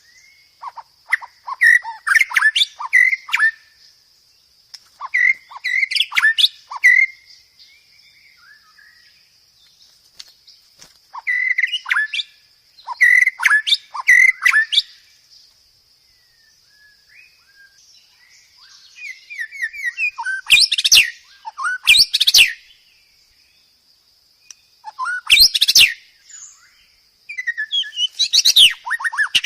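White-rumped shama (murai batu) singing in short phrases of quick, varied whistled notes with pauses between, the loudest, sharpest notes about two-thirds of the way through and near the end, over a steady high-pitched whine.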